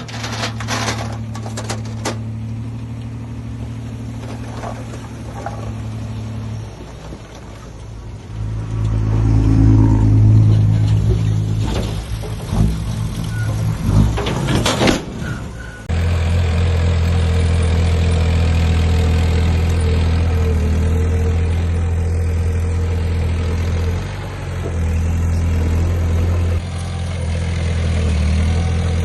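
Heavy diesel earthmoving machinery at work: an engine runs steadily, then revs up under load with a series of sharp knocks and cracks. About 16 seconds in it cuts suddenly to another diesel engine running steadily and loudly.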